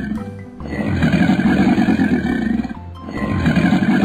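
Cartoon animal roar sound effect played over and over: long growling roars about two seconds each, with a brief break between them, one ending just after the start and another beginning near the end.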